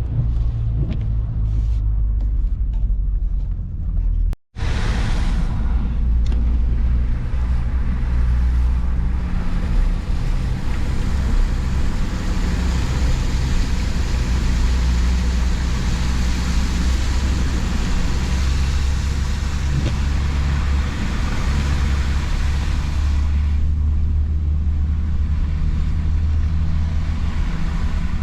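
A motor vehicle driving: a steady low engine and road rumble with a broad hiss over it. There is a very brief dropout about four seconds in, and the hiss eases near the end.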